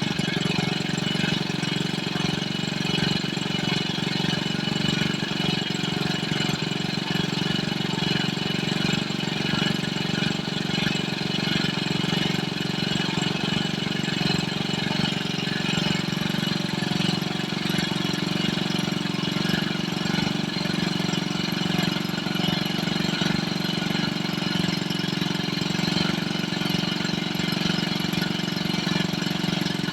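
Koshin SEV-25FG engine pump running steadily at a constant speed, its small petrol engine chattering evenly without change.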